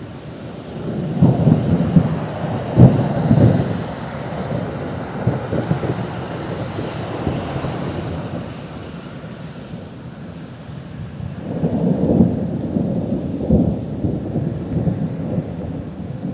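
Thunder rumbling in two long rolls, the first with sharp cracks in it, the second about ten seconds later.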